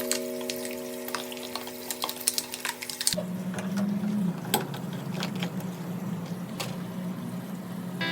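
Crackling, sizzling water sounds from a washing machine being cleaned, with a steady low machine hum setting in about three seconds in. A held music tone fades out at the start.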